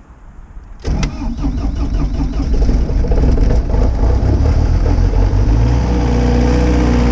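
An engine starts about a second in, running unevenly at first, then settles into a steady idle.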